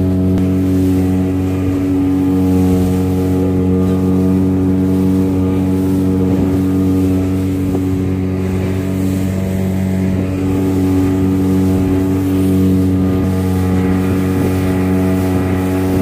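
An engine running steadily at an unchanging speed, a constant low hum with strong overtones.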